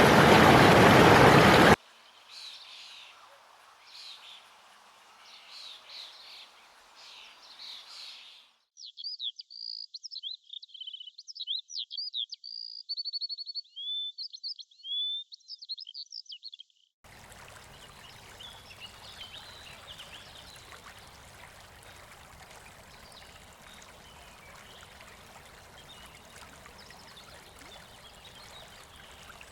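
Songbird singing a run of quick whistled and trilled phrases, clearest through the middle, over faint outdoor ambience with other faint chirps. A loud noisy sound cuts off sharply about two seconds in.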